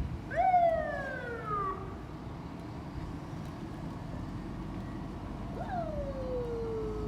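Two long wailing animal calls, each jumping up sharply in pitch then gliding slowly down, the second drawn out longer, over a steady hiss of rain.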